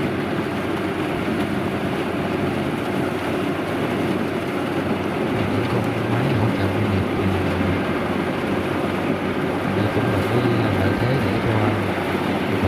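Kubota DC-93 combine harvester running steadily in the field: a low engine drone that wavers slightly in pitch over a dense, even mechanical din.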